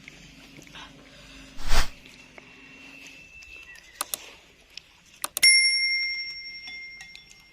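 An eating utensil strikes a bowl with a sharp clink, and the bowl rings out in a clear tone that fades over about two seconds. A few lighter clicks come before it, and there is a brief loud rush of noise earlier on.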